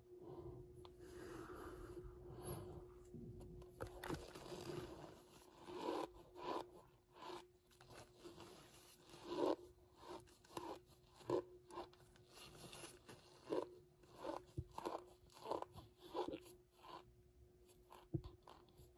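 Cornstarch being crunched and chewed close to the microphone. A few seconds of continuous crackling come first, then a run of separate crunchy bites and chews, roughly one or two a second.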